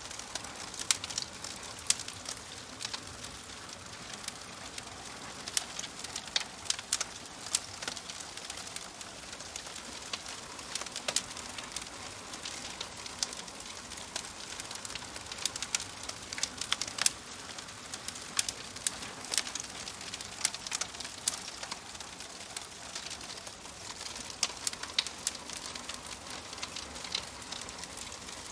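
Wood fire crackling in a fireplace: a steady soft hiss with irregular sharp pops and snaps, some coming in quick clusters.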